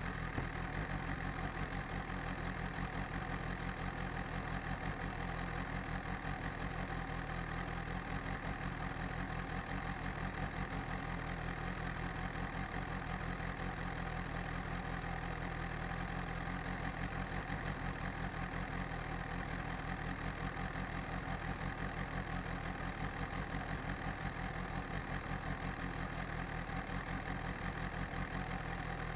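BMW S1000RR's inline-four engine idling steadily, with an even, fast pulsing beat and no revs.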